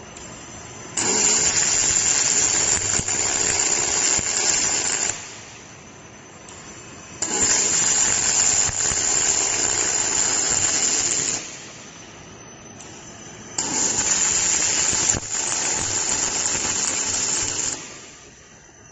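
Robotic MIG welding arc on aluminum, sounding in three steady runs of about four seconds each, with quieter pauses between the welds.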